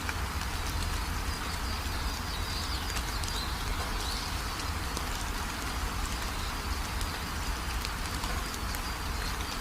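Steady rain falling, with a low rumble underneath and a few faint bird chirps.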